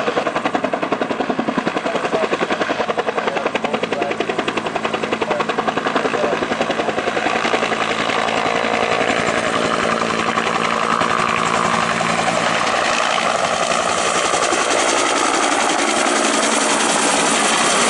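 Helicopter rotor chopping rapidly and evenly, the beat smoothing out after about eight seconds into a steadier rushing sound with a whine.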